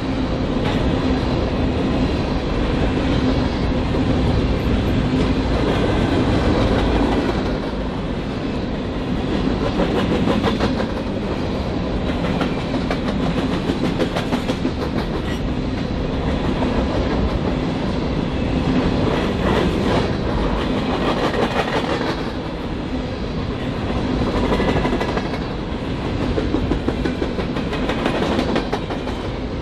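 BNSF freight train cars rolling past at close range, their wheels clacking steadily over the rail joints.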